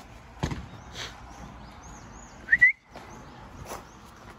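Birds chirping: faint high arched calls and one loud two-note rising chirp about two and a half seconds in, with a few dull thumps over a faint outdoor background.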